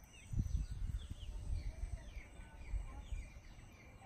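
Small birds chirping, with many short falling chirps throughout, over low rumbling thumps.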